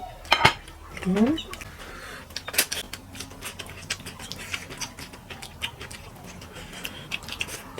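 Close-miked eating: many small sharp clicks and smacks of a person chewing and handling food on a plate, with a louder click about half a second in. A short rising vocal sound comes about a second in.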